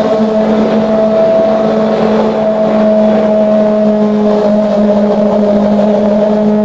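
Kawasaki ZX25R's inline-four engine running at steady high revs through an aftermarket exhaust, its note holding nearly level.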